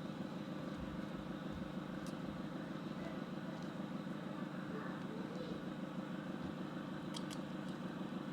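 Steady low background hum with a few brief faint clicks, about two and seven seconds in.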